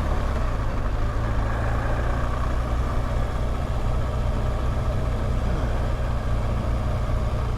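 BMW R1200GSA's flat-twin engine running steadily while riding, with a steady rush of road and wind noise.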